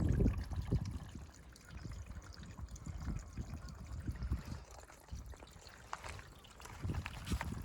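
Small garden waterfall: water pouring and trickling from an upper mortar-mixing tub into a lower one, with splashing that rises and falls unevenly.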